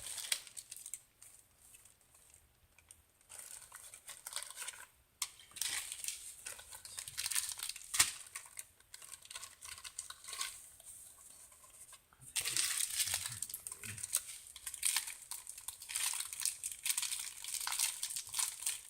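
Packaging for a diamond painting kit crinkling and rustling in bursts as the canvas is handled and wrapped back up. Sparse at first, turning near-continuous about two-thirds of the way through.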